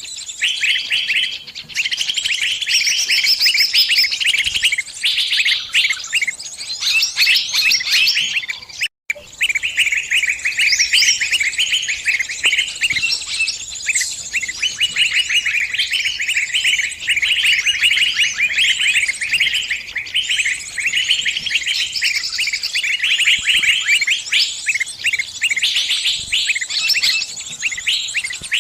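Small birds chirping and trilling rapidly without a pause: the distress calls of a trapped bird with others answering. The chirping cuts out for a split second about nine seconds in, then carries on.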